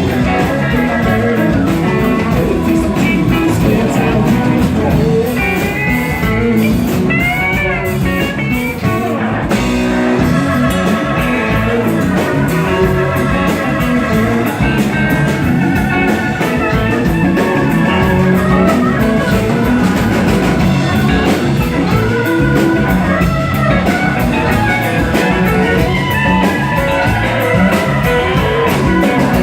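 A live rock band playing: electric guitar over a drum kit, with a steady beat.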